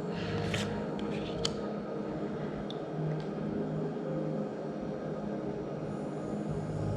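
A few soft clicks and flicks of trading cards being handled in the first three seconds, over a steady low hum.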